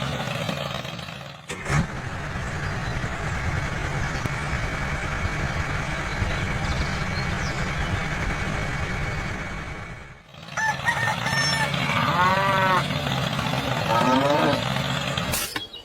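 A steady low mechanical rumble for about ten seconds, broken once by a short cut, then a series of pitched animal calls that rise and fall over the last few seconds.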